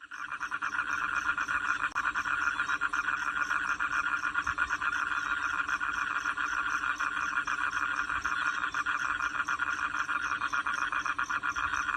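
Steady, rapid pulsing animal calls, starting abruptly and running without a break.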